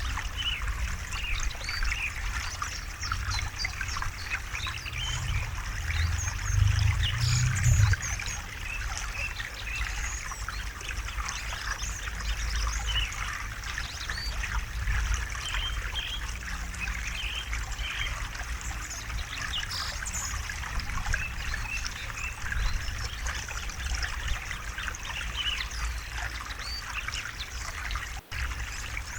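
River water babbling and trickling steadily, with a low rumble underneath that swells about six to eight seconds in.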